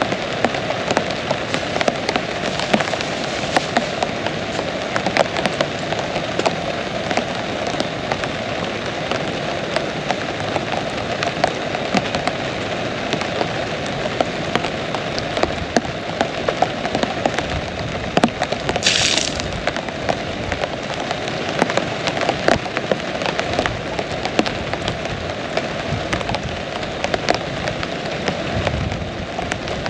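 Heavy rain falling steadily, a dense hiss thick with the sharp ticks of individual drops striking close by. A brief higher hiss cuts in about two-thirds of the way through.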